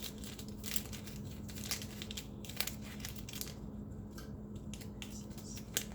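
Small plastic storage baggies from a diamond painting toolkit crinkling and rustling as they are handled and counted, in irregular short rustles and clicks.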